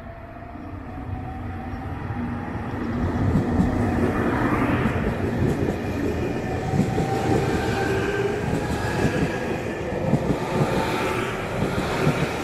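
Local train running on the rails, rumbling and growing louder over the first few seconds, then holding steady, with a whine that slowly rises in pitch.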